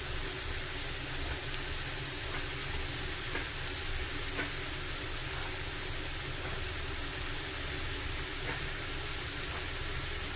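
Pumpkin pieces frying in oil in a steel kadhai: a steady hissing sizzle over a low steady rumble, with a few faint clicks of the metal spatula against the pan.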